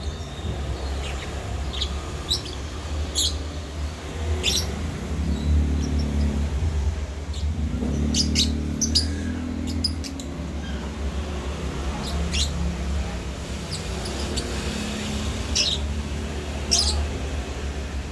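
Lovebird coming into breeding condition, giving short, sharp, high-pitched chirps at irregular intervals, some in quick clusters, over a steady low hum.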